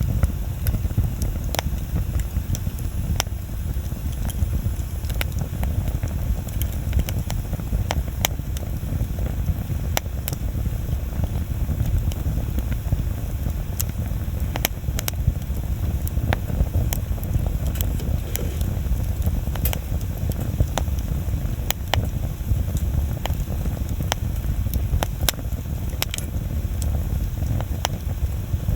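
Wood bonfire crackling, with sharp irregular pops and snaps over a steady low rumble.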